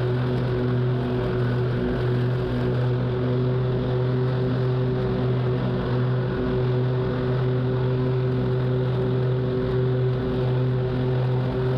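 Zero-turn lawn mower engine running steadily under mowing load, a constant low hum with no change in speed.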